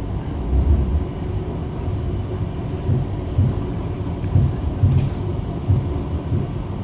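Bombardier Flexity tram heard from inside while running: a steady low rumble with irregular low thuds, and a faint click about five seconds in.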